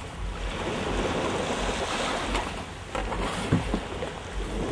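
Outdoor wind buffeting the microphone over the wash of river water, with a short knock about three and a half seconds in.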